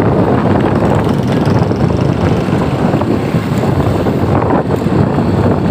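Wind buffeting the microphone over the running noise of a moving vehicle on a potholed road, a steady loud rumble.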